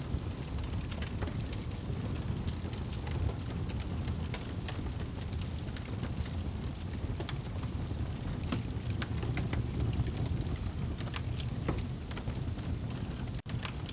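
Crackling fire and rain ambience: a steady low rumble with scattered sharp crackles and pops from the fire. The sound cuts out for an instant near the end.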